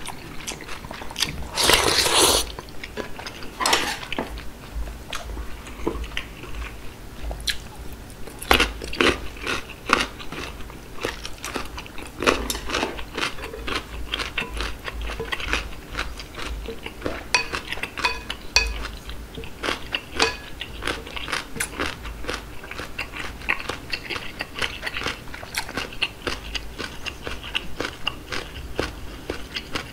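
Close-miked mouth sounds of eating seaweed soup with rice: steady wet chewing with many small clicks and lip smacks, and a few louder breathy bursts, the loudest about two seconds in.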